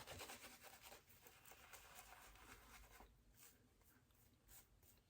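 Near silence with faint, short scratchy strokes: a shavette razor scraping across lathered stubble.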